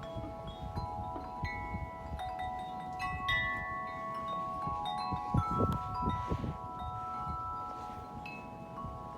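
A 36-inch Corinthian Bells wind chime ringing in strong wind, its tubes struck again and again so that their long-held tones overlap. A gust rumbles on the microphone about five and a half seconds in.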